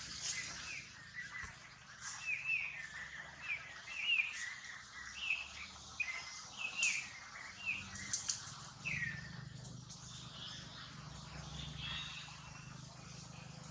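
A bird chirping in a quick run of short, high, hooked notes that stops about nine seconds in, with scattered faint ticks among the leaves.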